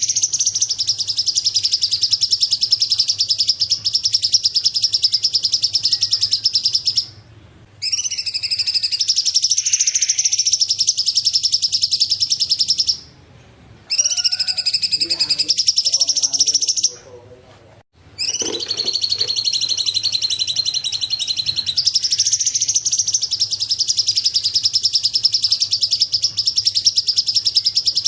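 Recorded songbird chorus: a dense, rapid, high-pitched chattering of small birds, played as a training track for cage birds, cut off briefly three times, at about 7, 13 and 17 seconds in.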